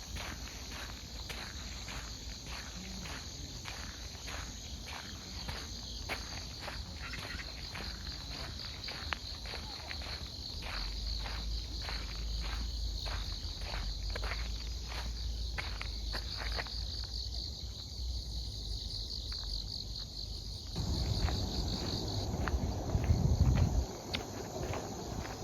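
Autumn grass insects chirping steadily in a high, continuous trill, with regular walking footsteps on a path at about two steps a second. The steps pause about two-thirds of the way through, and near the end a louder low rumble lasts a few seconds.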